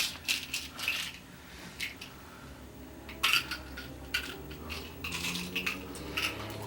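A series of irregular sharp clicks and clinks from small hard objects, over a faint low hum. The loudest clink falls a little past three seconds in.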